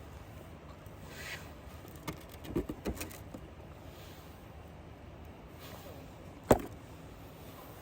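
A few light knocks about two to three seconds in, then one sharp, louder knock near the end, over a faint steady background.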